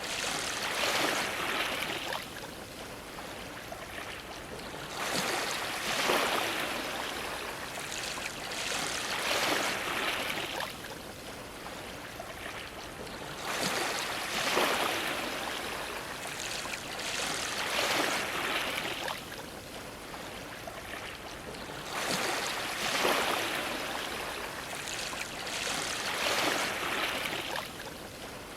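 Ocean waves washing and splashing against a dock, each surge swelling and ebbing over a couple of seconds and another arriving every few seconds.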